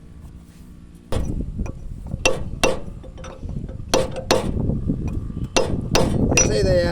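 Sharp metallic knocks and clanks over a low rumble that starts suddenly about a second in, the knocks coming irregularly, roughly one or two a second.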